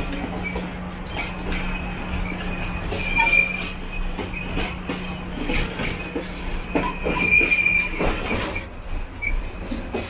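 Train rolling on rails: its wheels squeal briefly twice, high-pitched, over scattered clicks from the track and a steady low hum that stops near the end.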